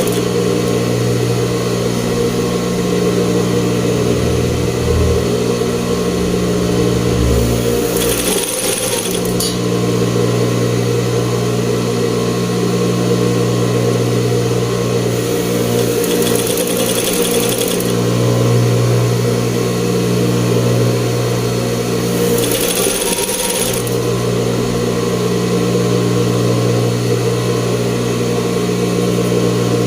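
Sewing machine running continuously at a steady speed, giving an even motor hum, with brief breaks in the stitching about eight seconds in and again past twenty seconds.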